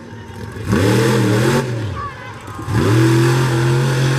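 Monster truck engine revving hard twice: a rev held for about a second, then after a short drop a longer rev that climbs and holds to the end.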